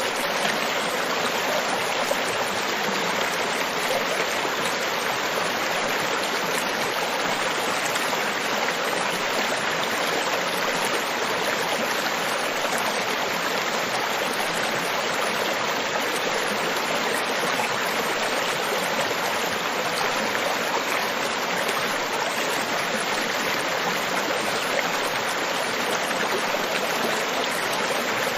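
Steady rushing water: an even, unbroken wash of noise with no swells or pauses.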